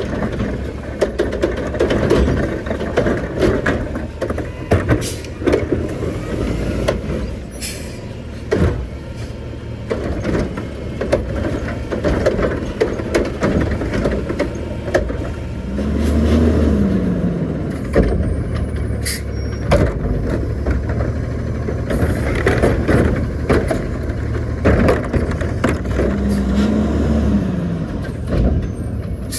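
Garbage truck engines running with frequent clanks and knocks of loading and collection. About halfway through and again near the end, the engine revs up and back down.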